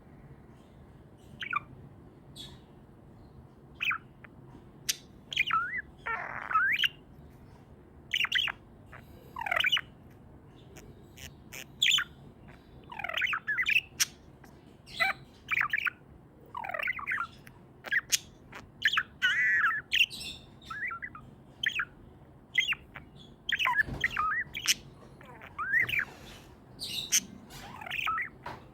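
Pet budgerigars chirping and warbling: a run of short chirps and quick up-and-down calls with brief pauses between them.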